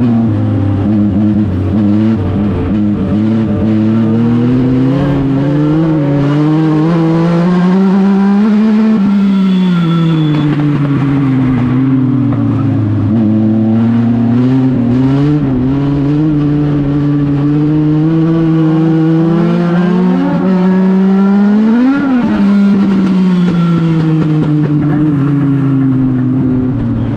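A small race car's engine running laps on a short oval. The pitch climbs as it accelerates down a straight and drops as it lifts for the turn, twice, about 13 seconds apart.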